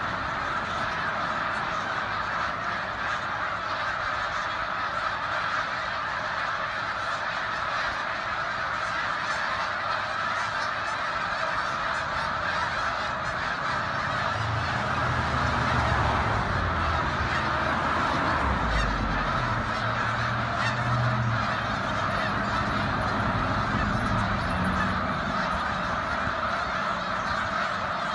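A large flock of geese honking continuously, many overlapping calls blending into a dense clamour.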